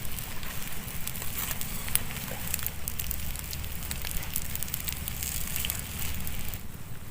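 Wood campfire crackling, with frequent small sharp pops over a low rumble; the crackling thins out about six and a half seconds in.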